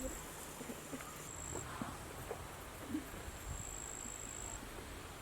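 Insect trilling at a high, steady pitch in long stretches, faint, with a few soft scattered knocks.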